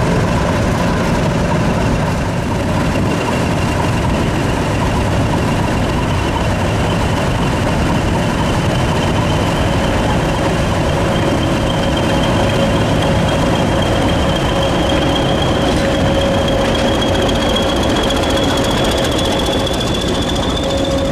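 English Electric diesel locomotive engine running steadily, with a high whine that slowly rises in pitch and a second, lower tone coming in about halfway.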